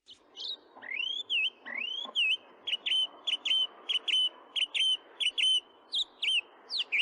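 A series of clear whistled notes: two rising sweeps, then about ten short, quick up-and-down notes at a steady two or three a second, with a faint steady background hiss underneath.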